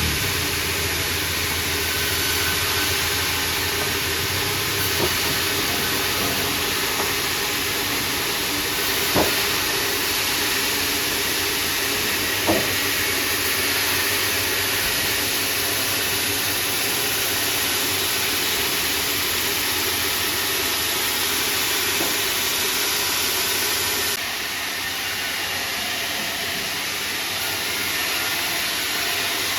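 Sawmill machinery running: a steady hiss with a faint hum, broken by a few short knocks, and a little quieter from about 24 seconds in.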